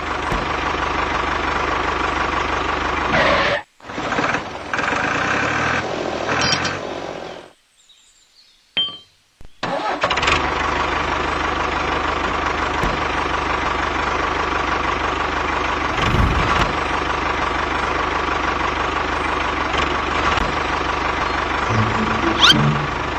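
A small motorised machine running steadily with a constant hum. It cuts out abruptly twice, briefly and then for about two seconds, before running on.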